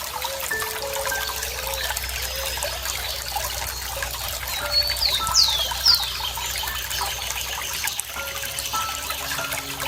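Running water trickling and bubbling steadily. About five seconds in, a bird gives three or four quick, high, downward-sliding chirps.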